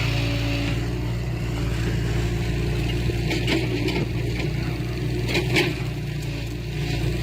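Heavy diesel engine of earthmoving machinery running steadily, with a few sharp metal knocks about halfway through and again near the end.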